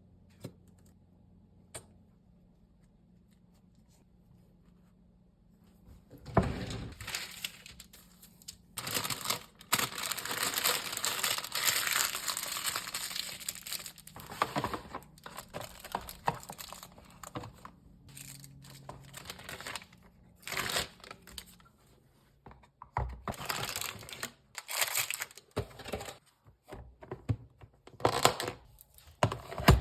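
Plastic or paper packaging crinkling and being torn. It is quiet for the first few seconds, then a dense stretch of rustling follows, breaking into irregular short crackles.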